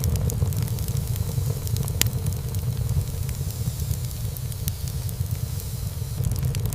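Wood fire burning in a fireplace: a steady low rumble of flames and hiss, with scattered crackles and one sharp pop of burning wood about two seconds in.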